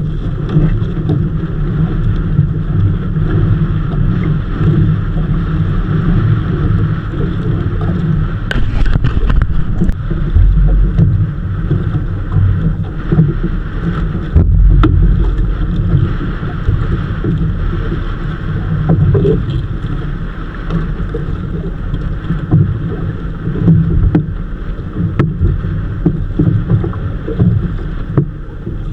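Motorized bangka's engine running steadily, with wind buffeting the microphone and a few low thumps.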